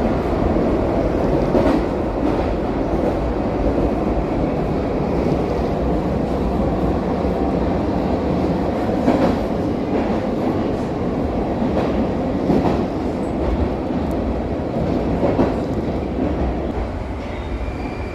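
Moscow metro train running through a tunnel, heard from inside the car: a steady rumble with occasional knocks of the wheels over rail joints. Near the end a high steady whine sets in.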